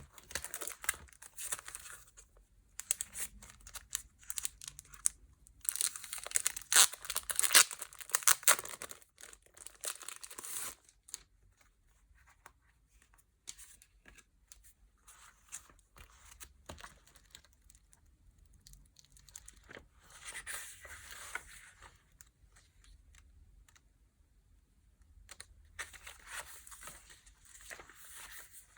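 Packaging being handled and opened by hand: irregular bursts of crinkling and tearing, loudest about six to nine seconds in, with quieter rustling between and further bursts near the end.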